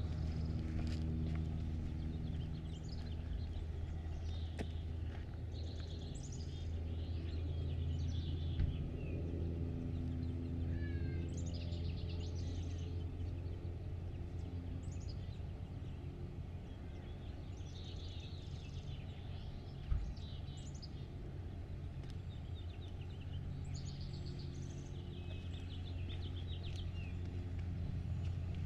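Songbirds singing in short, repeated chirping phrases over a steady low mechanical hum, with two brief knocks about nine and twenty seconds in.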